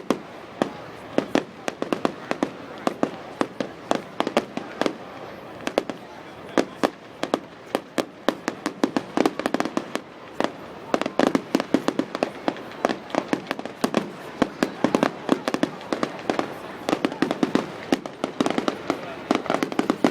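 Fireworks going off in a dense, irregular string of sharp bangs and cracks, several a second, without a break.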